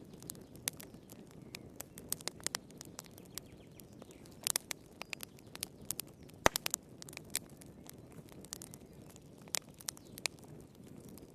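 Wood fire crackling in a fireplace: irregular sharp pops and snaps over a low steady rumble of burning, with one louder pop about six and a half seconds in.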